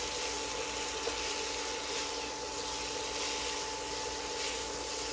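Spaghetti, shrimp and oil sizzling gently in a hot pan, a steady hiss, with a steady hum underneath.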